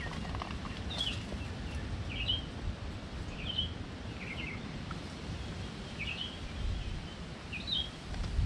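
A bird chirping short, high, falling calls about six times, a second or two apart, over a steady low rumble of outdoor noise.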